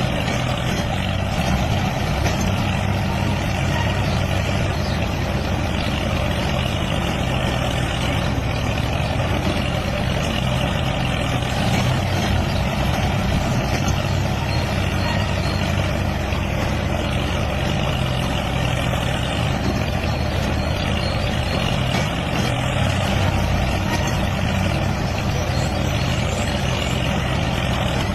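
DIY mini tractor running with a steady, unbroken engine-like noise and a low hum.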